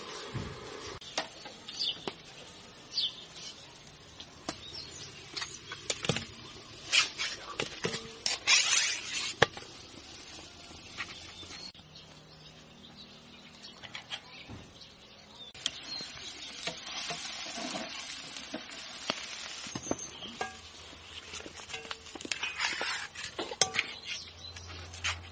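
Scattered clicks and taps with a few short rustling, hissing bursts: hands handling utensils and food while preparing chicken kebabs outdoors.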